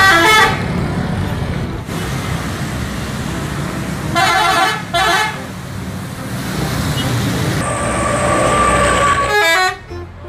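Vehicle horn honking in short toots over steady road-traffic noise, with two toots close together about four to five seconds in.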